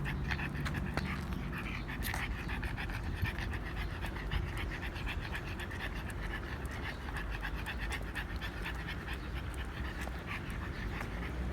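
A dog panting steadily in quick, even breaths, with a low steady rumble underneath.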